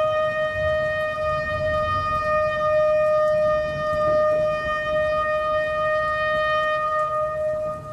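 Shofar (ram's horn) sounding one long, steady held blast that ends near the end.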